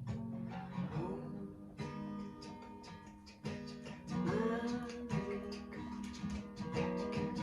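Acoustic guitar strummed in a steady chord pattern, with a few gliding notes about a second in and again near the middle.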